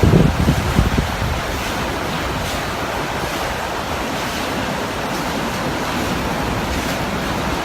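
Steady roar of typhoon wind, with low thumps of wind buffeting the microphone in the first second.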